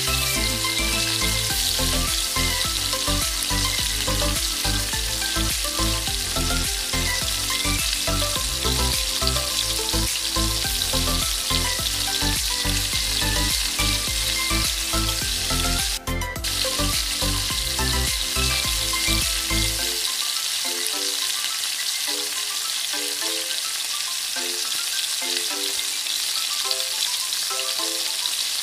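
Yard long beans and bell pepper sizzling as they stir-fry in a pan over a gas flame. Background music plays over the sizzle, and its bass drops out about two-thirds of the way through.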